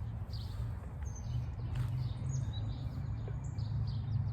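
Several small birds chirping and whistling in quick short calls, over a steady low rumble.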